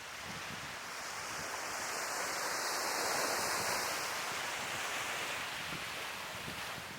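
Sea waves breaking and washing up the shore, the surf swelling to its loudest about three seconds in and then easing off.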